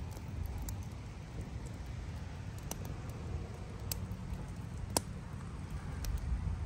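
Campfire wood crackling, with a few sharp pops about three and four seconds in and a louder one near five seconds, over a steady low rumble.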